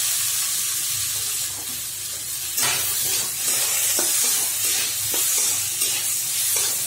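Potato and taro-stalk pieces sizzling in hot oil in a steel kadhai. From about two and a half seconds in, a metal spatula scrapes and clinks against the pan as they are stirred.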